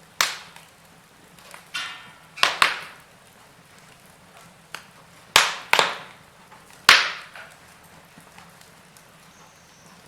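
Wood fire burning in a fireplace, crackling with a run of loud, sharp pops from the logs, some coming in quick pairs, each trailing off briefly.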